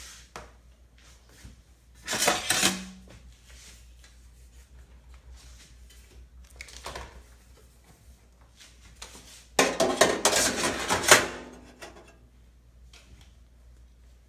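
Toaster-oven wire rack and metal baking pan being handled, clattering briefly about two seconds in and again in a longer, louder rattle around ten seconds in.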